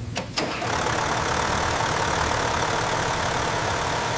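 Car engine running steadily under test, a dense even drone with a faint steady whine; it comes in after two short clicks in the first half second.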